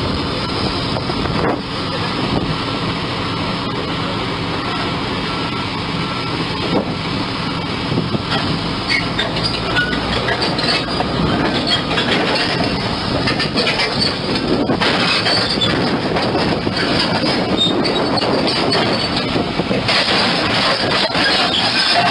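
Crawler bulldozer at work: its diesel engine runs steadily under the metallic clanking and squealing of the steel tracks, getting louder and harsher in the second half.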